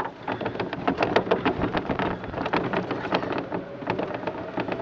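Golf cart driving over rough ground: a steady low hum under a dense run of rattles and clicks.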